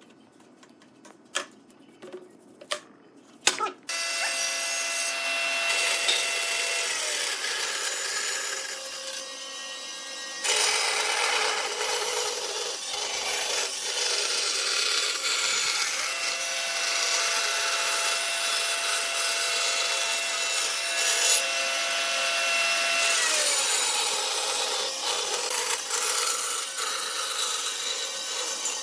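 A few light knocks, then an electric power tool working wood for the rest of the time. Its motor whine drops in pitch twice, about seven and twenty-three seconds in.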